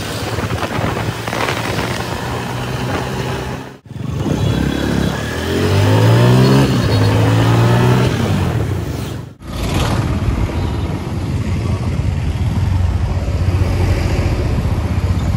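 Motor vehicle engine running with road noise, in three short stretches with abrupt cuts between them; in the middle stretch the engine note rises and falls as it accelerates.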